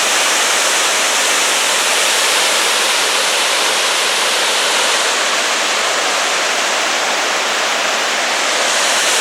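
Horsetail Falls waterfall running at about its fullest, a loud, steady rush of falling water.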